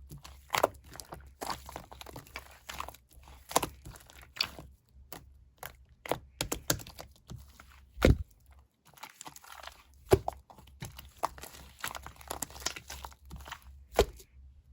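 Slime mixed with colored sand being pressed and worked by hand: dense, irregular crunching and crackling, with a few sharper pops standing out.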